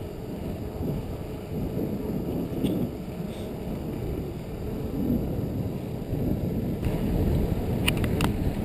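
Low, steady rumble of wind on a helmet- or bike-mounted GoPro's microphone and mountain-bike tyres rolling over the path while riding. A few sharp clicks come near the end.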